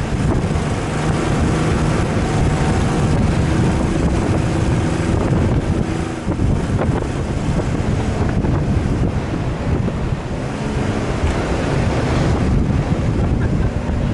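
Off-road 4x4 driving, its engine running steadily, with heavy wind noise buffeting the microphone.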